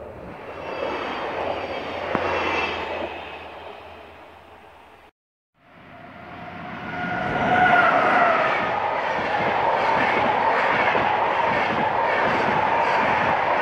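Two train passes separated by a short cut. First a train goes by and fades away; then an Intercity train hauled by an electric locomotive comes up and rushes past close by, its wheels clattering rhythmically over the rail joints.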